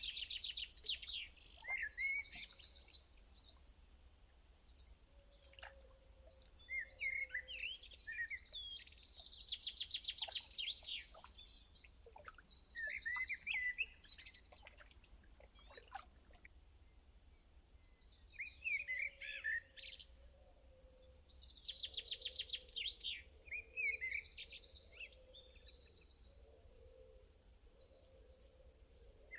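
Songbirds singing: three long, rapid trilling song phrases a few seconds each, with scattered short chirps in between.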